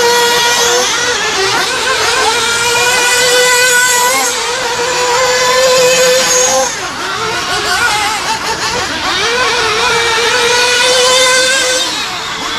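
Small two-stroke engines of RC stadium trucks running hard around a track: a high, steady engine note held at full throttle, dropping off briefly about a third and about halfway through and near the end, then rising again as the throttle comes back on.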